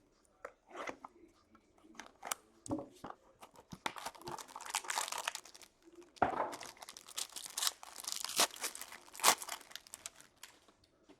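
A trading card pack wrapper being torn open and crinkled: scattered rustles and rips, with two longer stretches of tearing and crinkling in the middle.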